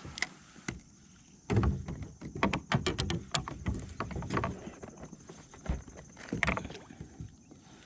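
Knocks and rattles against a kayak as a freshly caught largemouth bass thrashes and is handled. A quick, dense run of clicks and thumps starts about a second and a half in, then thins to scattered knocks.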